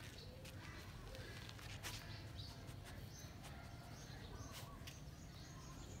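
Faint bird chirps and short calls over a low, steady background hum, with a few light clicks.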